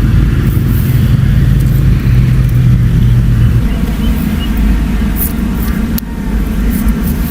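Electric razor buzzing as it is run over chest hair: a steady low hum whose strong tone fades about three and a half seconds in, with a few brief scratchy strokes in the second half.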